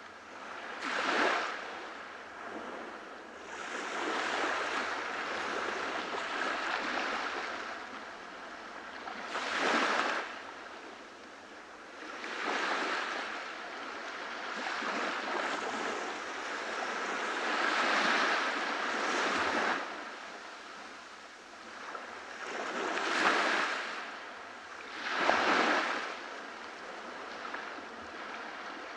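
Waves breaking and washing up on a beach, the surf swelling and fading every few seconds, with several sharper breaks standing out.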